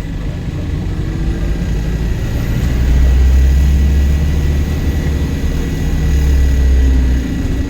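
Volvo B5LH hybrid double-decker bus's four-cylinder diesel engine heard on board, running hard under acceleration and then dropping away about seven seconds in as the bus goes into regenerative braking. A steady high whine runs underneath.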